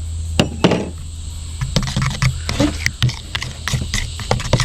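Utensil clicking and scraping against a bowl while stirring extra flour into runny pancake batter: a quick, irregular run of clinks and taps.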